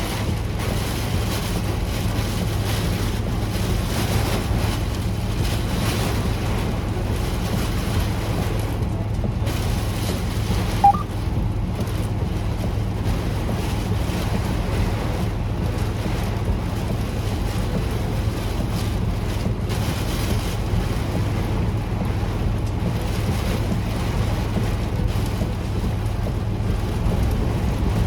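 Heavy rain falling steadily, with the constant low hum of a semi truck's engine underneath. A single short chirp rises in pitch about eleven seconds in.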